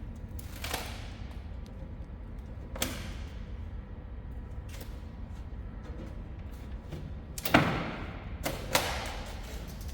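A few sharp knocks and clanks of hard objects being handled, the loudest about seven and a half seconds in, followed by two more close together, over a low steady workshop hum.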